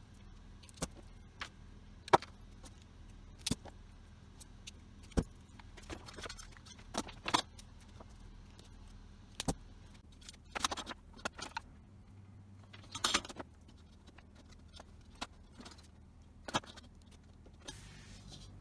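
Irregular metallic clinks, clicks and knocks, with a couple of brief scrapes, over a faint steady low hum.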